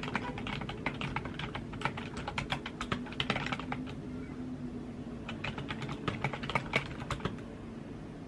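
Typing on a computer keyboard: rapid runs of keystroke clicks, a brief pause about four seconds in, another run, then the typing stops about seven seconds in. A steady low hum runs underneath.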